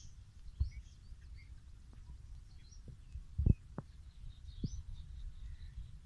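Small birds chirping faintly in the background over a low rumble, with a few soft thumps; the loudest thump comes about three and a half seconds in.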